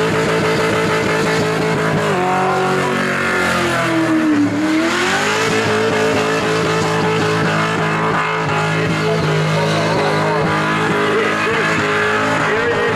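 Holden Commodore V8 held at high revs during a burnout, with tyre squeal over it. About two seconds in the revs sag, bottom out a couple of seconds later, then climb back to a steady high pitch.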